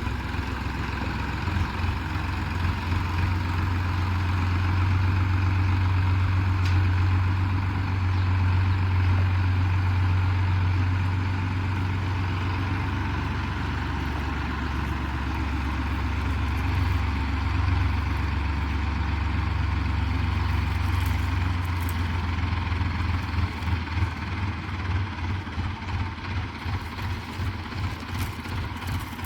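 Tractor engine running with a steady deep hum; near the end the sound turns uneven and pulsing.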